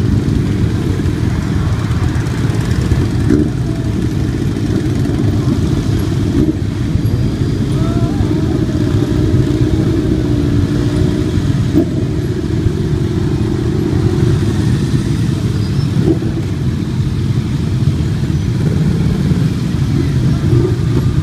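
Motorcycle engines running: a loud, steady low rumble, with an engine note that comes and goes about halfway through.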